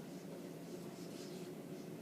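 Steady low background hum, with a few faint high-pitched ticks about a second in.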